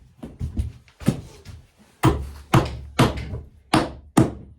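Hammer blows driving nails into wood: about seven sharp strikes at irregular intervals, roughly one every half second to second, with a few lighter taps between.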